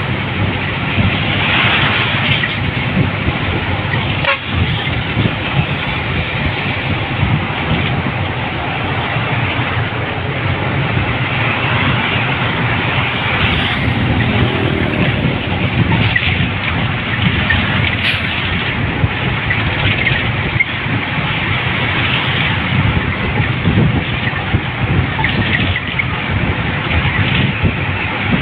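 Steady road and traffic noise recorded from a moving vehicle: a continuous low rumble of engine and tyres with wind.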